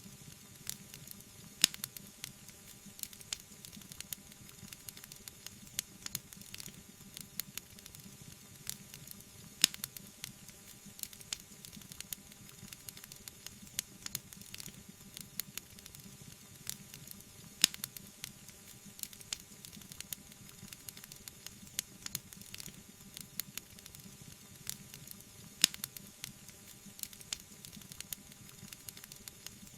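Wood fire burning: steady crackling over a soft hiss, with a louder pop about every eight seconds.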